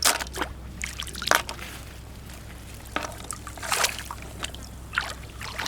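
Irregular wet crunches and squelches in wet sand and shallow water, with some trickling water, as seashells are gathered on a tidal flat.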